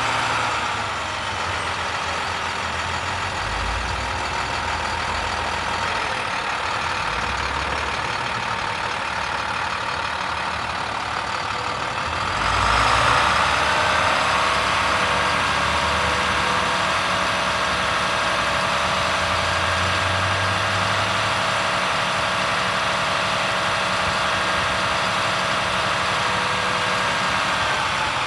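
International 7400 utility truck's MaxxForce DT inline-six diesel idling steadily. It gets somewhat louder about twelve seconds in.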